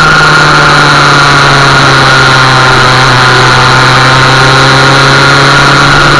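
Motorcycle engine running at a steady mid-range pull of roughly 4,000–5,000 rpm while riding, its pitch easing slightly lower, under a constant high whine and rushing noise.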